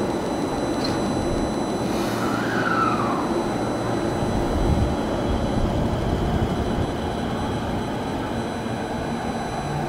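Tokyo Metro 05 series electric train pulling out and running away along the platform: a steady low rumble of running gear, with a brief whine that rises and then falls about two seconds in. A steady thin high hiss from the video camera's own noise sits over it.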